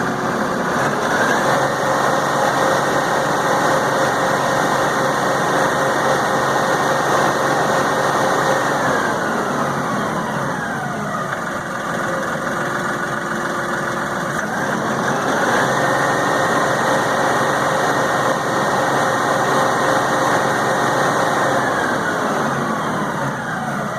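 LS XR4155 tractor's diesel engine revving up and holding at high speed, dropping back toward idle about ten seconds in, then revving up again and falling back near the end. It runs evenly through the revs; the owner takes the earlier misfire fit to have passed, and suspects water or dirt in the diesel fuel as its cause.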